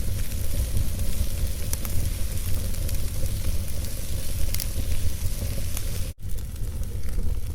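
Wood logs burning in a fireplace: a steady hiss and low rumble with a few sharp crackles scattered through. The sound cuts out for an instant about six seconds in.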